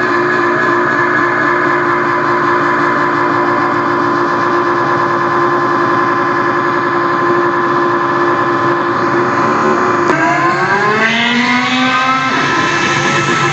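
Motorcycle engine running at a steady speed with a fast flutter, then revving up about ten seconds in and holding at the higher pitch.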